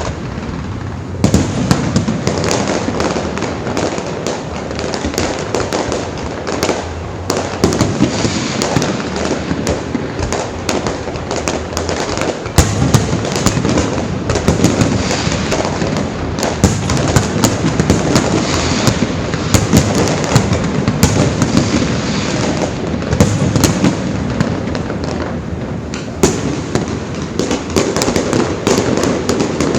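Fireworks display: many shells bursting in rapid, overlapping bangs and crackles, after a short quieter moment at the start.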